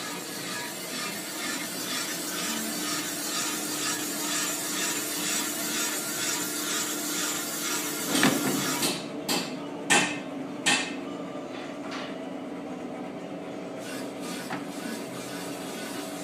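A rough scraping or rubbing noise, then four or five sharp knocks about halfway through, after which only a steady low hum remains.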